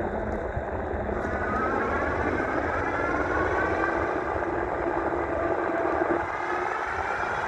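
5000-watt electric bike's motor whining while riding at speed, its pitch slowly rising, over a steady rumble of wind on the microphone.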